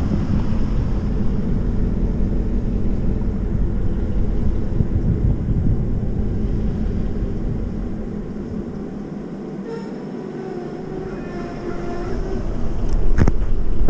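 A passenger train's cars rolling on the track directly below, a steady low rumble of wheels on rail. It eases briefly in the middle, with a faint squeal, then swells again with a few sharp knocks near the end.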